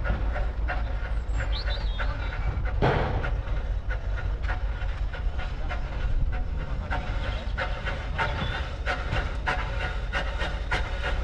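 Andrew Barclay steam locomotive running along the line, heard from the footplate: a steady low rumble with many clicks and knocks from the wheels and rails, and a short rush of noise about three seconds in.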